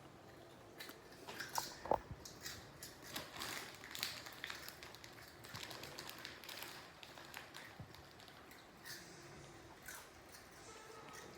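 A small dog crunching and chewing crispy pork rinds (chicharrones): a run of irregular, crackly crunches, busiest in the first half, then thinning to a few scattered crunches.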